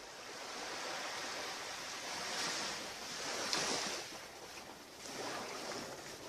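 Surf on a beach: waves washing in, a broad rushing noise that swells up twice and eases off.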